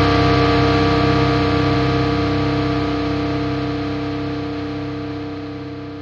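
Distorted electric guitar holding a final chord that rings out and slowly fades away.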